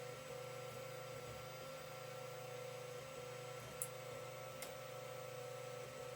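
Creality CR-10 3D printer running mid-print: a steady hum and whine from its motors and fans, dipping briefly now and then, with two small ticks a little after the middle.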